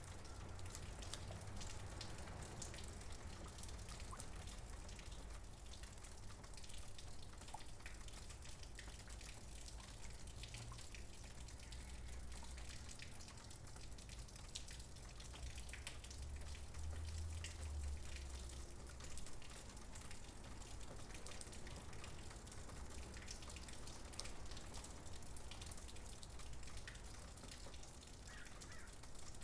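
Faint rain on a tiled roof: many separate drops dripping and pattering steadily, over a low rumble.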